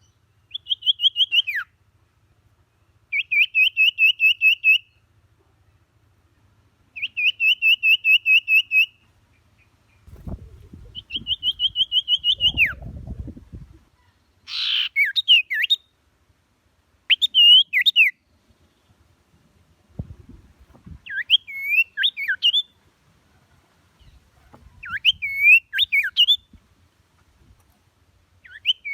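A songbird singing loud, rapid trilled phrases, each a second or two long and repeated every few seconds. About halfway through it changes to varied, slurred whistled notes. Gusts of wind rumble on the microphone about a third of the way in, and briefly again later.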